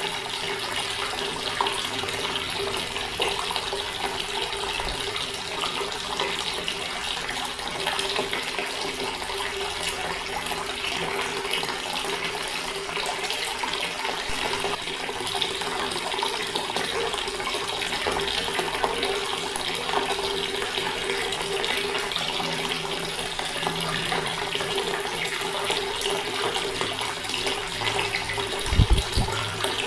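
Water running steadily from a tap, with a steady hum-like tone in the flow. A short dull low thump comes near the end.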